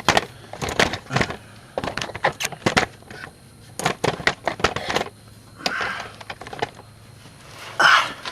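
Irregular clicks, knocks and rattles of the camera being handled and propped into place against hard surfaces, thickest in the first five seconds, with a short louder scuff near the end.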